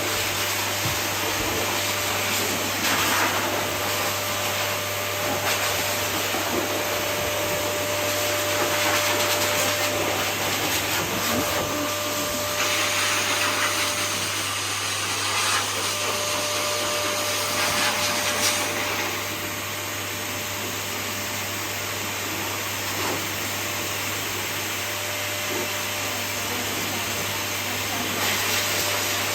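Pet blow dryer running steadily, blowing air through a wet dog's coat. The sound of it changes for several seconds about halfway through, then settles back.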